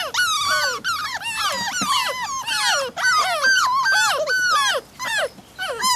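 Puppy whining and yelping: a rapid string of short, high-pitched cries, each rising and falling in pitch, with a brief pause about three seconds in.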